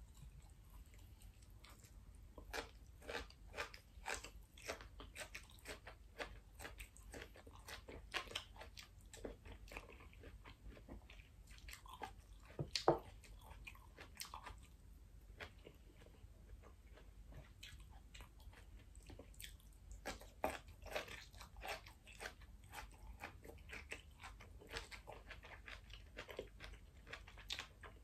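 Close-miked chewing: crisp crunching bites of stir-fried asparagus spears and softer chewing with rice, a run of small crunches coming a few to the second, with one sharper click about halfway through.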